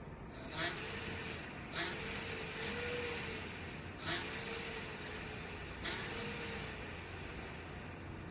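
Graphics card cooling fan running with a steady whir and a faint wavering hum that rises and falls in short swells. Four sharp ticks come at uneven intervals, each followed by a swell.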